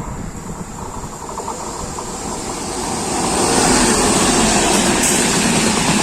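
Express train running past on the rails, the rumble and rush of wheels on track swelling sharply about three seconds in as it draws level, then staying loud.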